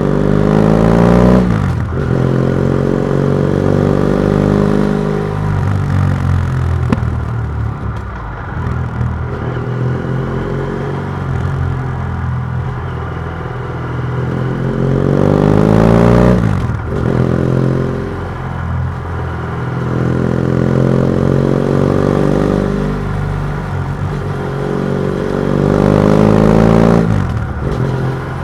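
BMW F700GS parallel-twin engine through an open MIVV titanium exhaust with the dB killer removed, accelerating in long pulls that rise in pitch and then drop sharply as the throttle closes or a gear is changed, three times most clearly, with shorter rises and dips between.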